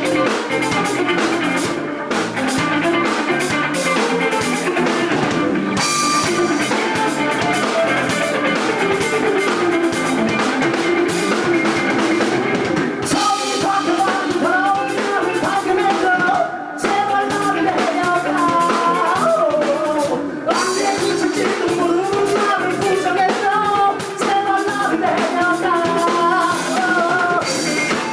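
Rock band playing live: drum kit and guitar with singing, loud and continuous.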